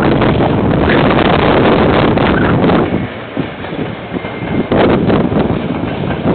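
Two diesel freight locomotives passing with a train of wagons, a loud rumbling rush with an uneven, gusting loudness. Wind buffets the microphone over it.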